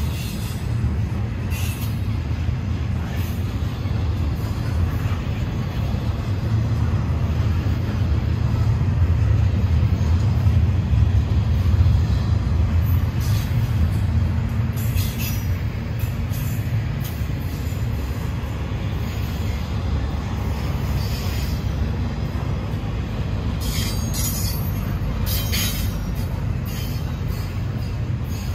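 Freight train rolling past: a steady low rumble of cars on the rails, a little louder about a third of the way in, with short high-pitched metallic screeches from the wheels every few seconds.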